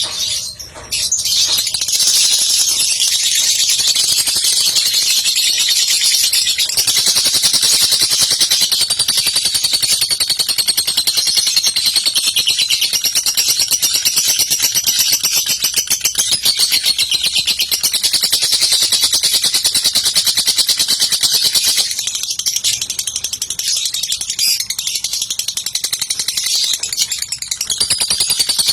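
Lovebird singing a long, unbroken, rapid high-pitched chatter, the continuous 'ngekek' song judged in Indonesian lovebird contests. It starts about a second in and keeps going with only slight dips in level.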